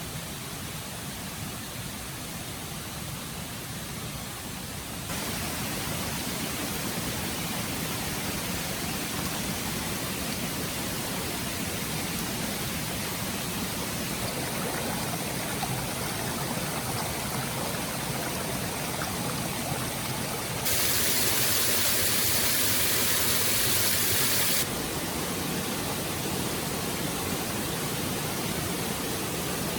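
Steady rushing of a forest stream with no pauses, stepping up in level about five seconds in and turning louder and hissier for a few seconds from about 21 s before dropping back.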